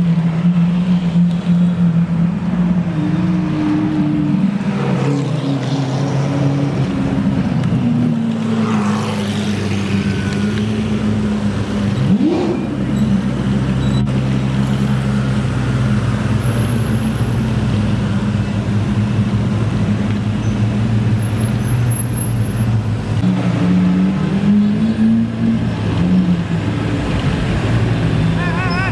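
Supercar engines running at low speed, a steady low drone whose pitch steps up and down, with a brief rev about twelve seconds in.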